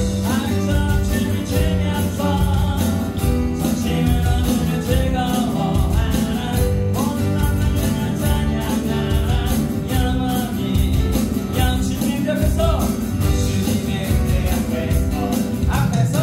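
Live worship band playing an upbeat praise song, with singing over electronic drums, bass guitar, keyboard and acoustic guitar and a steady beat.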